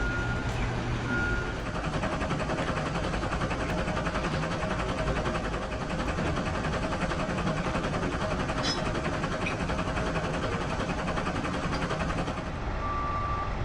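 Vehicle running with a reversing alarm beeping twice at the start, over a steady wash of engine rumble and outdoor noise; near the end a lower-pitched beep repeats at a slow, even pace.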